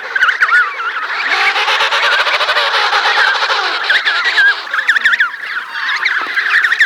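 Emperor penguin chicks giving shrill, wavering whistle calls over and over, the begging calls of chicks at feeding time. A longer, louder buzzing call runs from about one second in to about four and a half seconds in.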